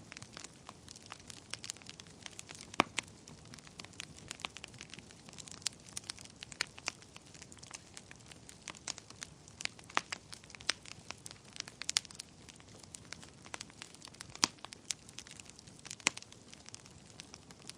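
Wood fire burning in a fireplace: a soft steady hiss with frequent irregular crackles and pops, a few sharper snaps standing out.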